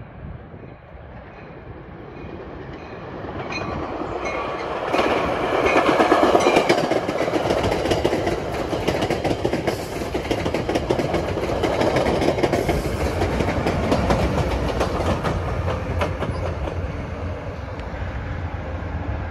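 NJ Transit commuter train approaching and passing, building over about five seconds to a loud, steady rush of wheels on rail with rapid clicking over the rail joints. It eases a little later, leaving a deeper rumble near the end.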